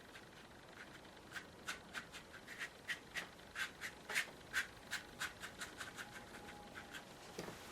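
Paintbrush dabbing thick acrylic paint onto the painting surface for impasto clouds: a run of short, faint scratchy strokes, about three a second, that tails off after about six seconds.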